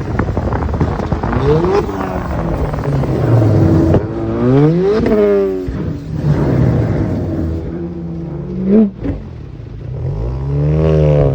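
Car engine revving and accelerating, its pitch rising and falling several times, most clearly about halfway through and again near the end.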